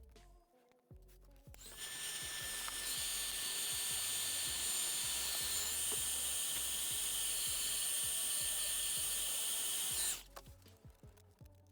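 Small high-speed power tool running steadily with a high whine for about eight seconds, starting about one and a half seconds in and cutting off near the end, over quiet background music.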